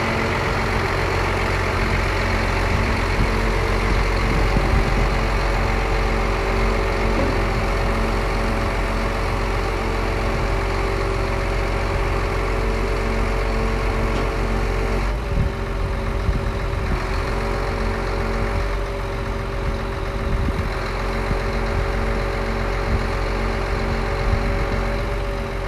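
Scania P114 340 lorry's six-cylinder diesel engine idling steadily with a steady whine over the rumble. About halfway through the whine drops slightly in pitch and the engine note settles a little lower.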